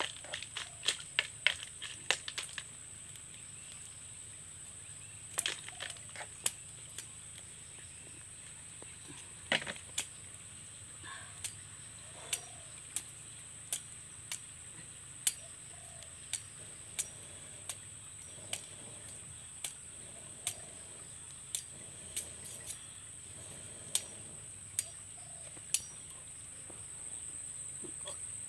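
Open wood fire crackling under a wok: sharp pops about once a second, in a quick cluster in the first couple of seconds, over a steady high-pitched drone.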